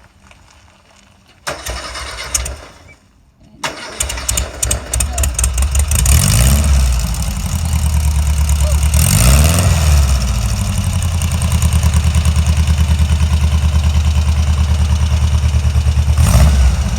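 Trike's engine being started: the starter cranks briefly, stops, cranks again, and the engine catches about six seconds in. It is revved once, then settles into a steady, evenly pulsing idle, with a short blip of the throttle near the end.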